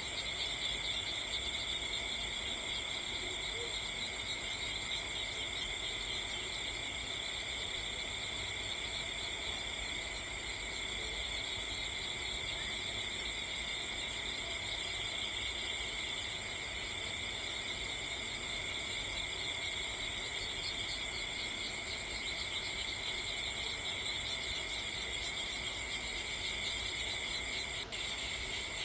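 Steady chorus of insects, crickets or similar, trilling without a break at several high pitches, with a single sharp click near the end.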